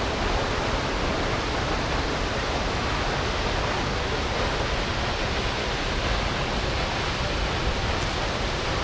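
Steady roar of the Düden waterfall, water pouring off a cliff in a constant rushing noise.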